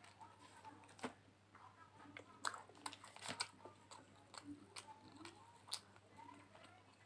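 Faint chewing of a mouthful of egg roll, with scattered wet mouth clicks and smacks.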